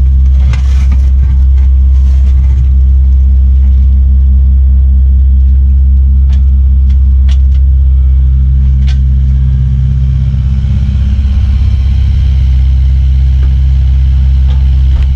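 Kubota U55-4 mini excavator's diesel engine running steadily at working speed, a loud, even drone, with a few short sharp clicks or knocks about six to nine seconds in.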